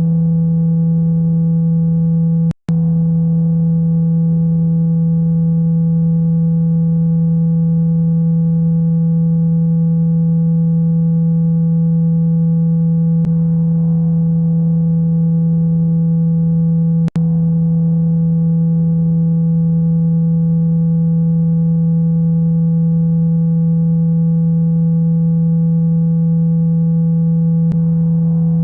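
Steady low electronic tone played to shake water out of a phone speaker, holding one pitch and level throughout. It cuts out for an instant twice, about two and a half seconds in and again about seventeen seconds in.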